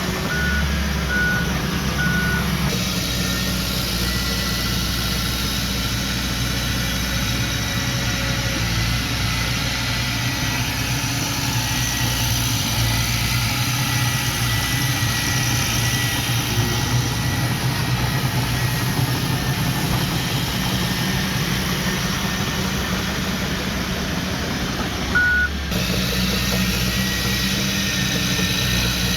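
Heavy earthmoving machine's diesel engine running steadily. A reversing alarm gives three short beeps near the start and one more near the end.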